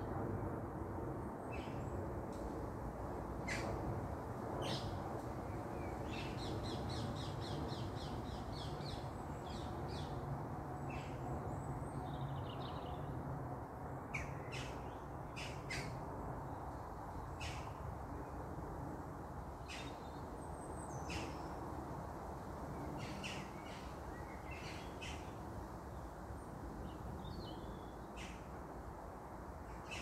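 Birds calling in the treetops: scattered short, sharp chirps, with a quick run of repeated notes about seven seconds in, over a steady low background rumble.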